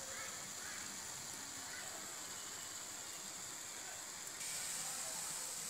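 Red spinach frying in oil in a wide metal pan: a steady sizzling hiss that gets louder a little past four seconds in.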